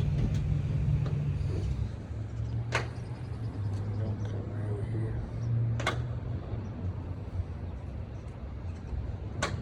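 Low, steady hum of an idling vehicle engine, with three sharp clicks about three seconds apart.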